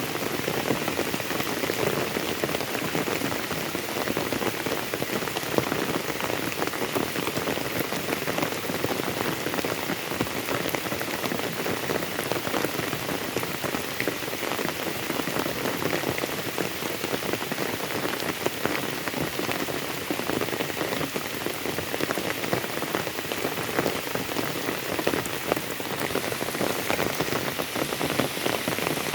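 Steady rain falling, with many small drop impacts heard as fine ticks over an even wash of noise.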